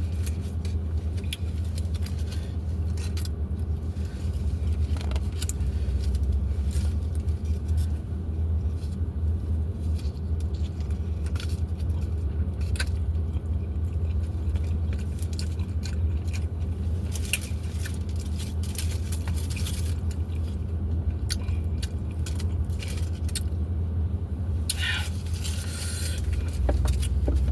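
Close-up eating sounds: chewing and crunching tacos, with many sharp clicks, over a steady low engine-like hum.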